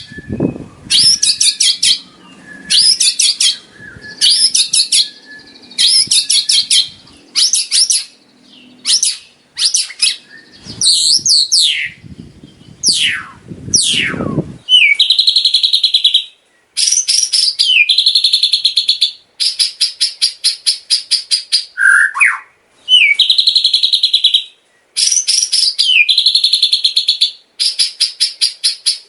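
White-rumped shama (murai batu) singing a varied song in short phrases about a second apart. The phrases mix fast repeated chirps, long falling whistles and fast ticking trills, the rich 'isian' repertoire that keepers play to caged shamas as a song model.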